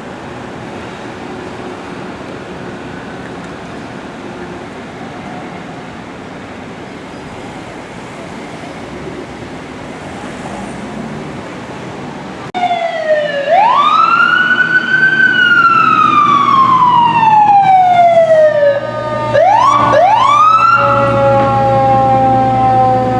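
Street traffic noise, then a Los Angeles Fire Department emergency vehicle's siren cuts in suddenly about twelve seconds in. It wails up and slowly down, rises twice more in quick succession, then slowly winds down over a low steady rumble.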